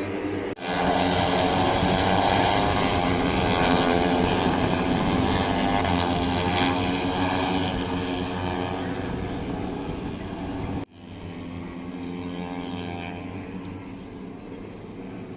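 MotoGP racing motorcycles running at high revs on the circuit below, their engine notes rising and falling in pitch as they pass. The sound breaks off abruptly about half a second in and again near eleven seconds, coming back quieter after the second break.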